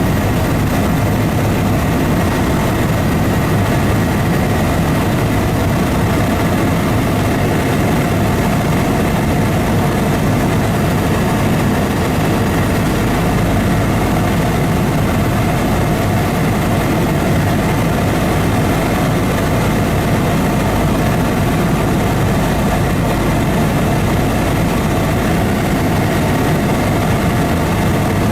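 Steady, loud engine drone of a sightseeing aircraft in flight, unchanging throughout.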